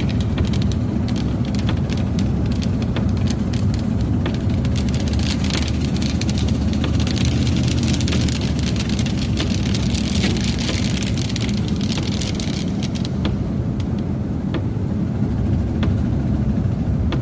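Car running down the road, heard from inside the cabin as a steady low rumble, with raindrops ticking on the windshield and roof. A stretch of louder hiss comes in the middle, and the ticks thin out near the end.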